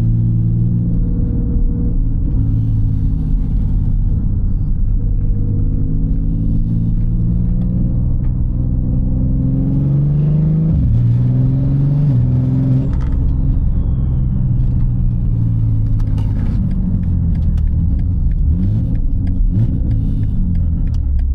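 Loud in-cabin sound of a single-turbo BMW G80 M3's S58 inline-six running under way. About halfway through, the engine note climbs in pitch for a few seconds, then drops suddenly and settles back to a steadier drone.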